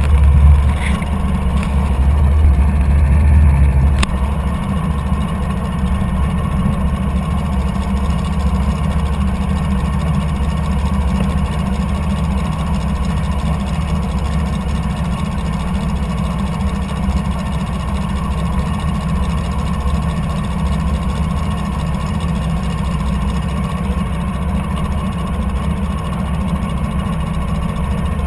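Boat motor running steadily, a little louder for the first four seconds and then settling to an even level.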